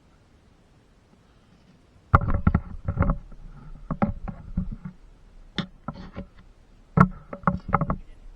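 Irregular sharp knocks and bangs, starting about two seconds in and coming in quick clusters, some with a brief ringing.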